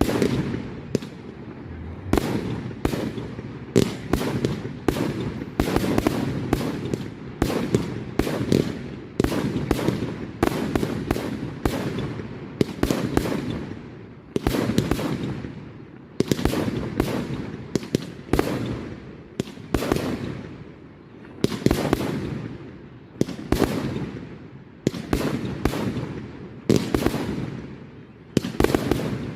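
Firework display: shells bursting in quick succession, about two sharp bangs a second, each trailing off into crackle and echo over a continuous low rumble.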